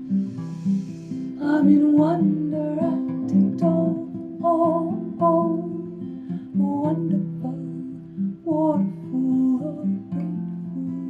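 Acoustic guitar playing the song's instrumental passage, with a voice singing short wordless phrases over it.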